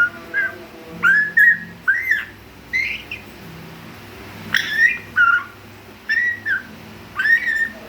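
Young African grey parrot practising whistles: short arching whistled notes in clusters of one to three, repeated about every second or two with pauses between.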